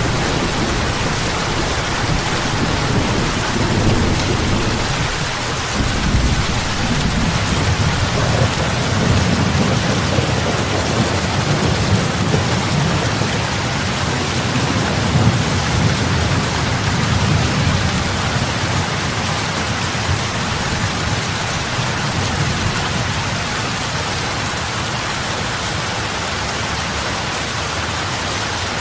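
Steady heavy rain falling on lake water, an even hiss of many drops, with a low rumble underneath that eases off about two-thirds of the way through.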